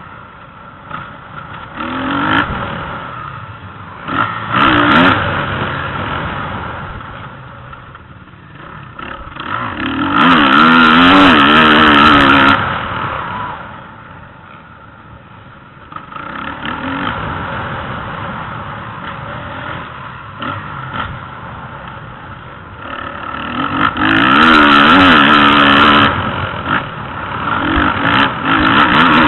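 Motocross motorcycles revving up and down as they ride the track. Two loud close passes, about ten seconds in and again near twenty-four seconds, each with the engine pitch rising and falling through the throttle and gear changes. Fainter engine noise from bikes further off lies between them.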